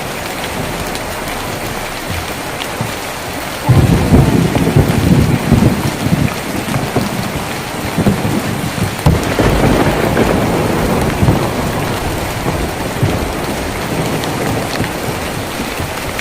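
Rain pattering on a tin roof. About four seconds in a low thunder rumble breaks in suddenly and rolls on, swelling again around nine seconds before slowly dying away.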